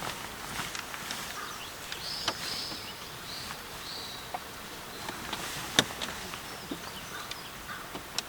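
Short high bird calls, a few in a row, over a steady outdoor background, with a few sharp clicks or knocks.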